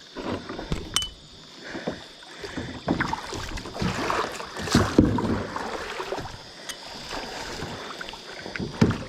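Kayak paddling: paddle blades dipping into and splashing the water in uneven strokes, with a few sharp knocks.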